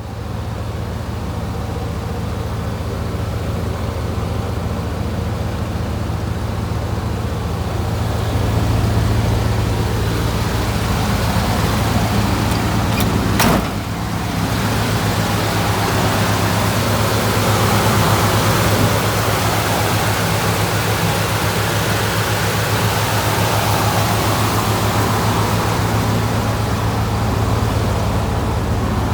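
A car engine running steadily at idle with a constant low hum, and a single sharp click about halfway through.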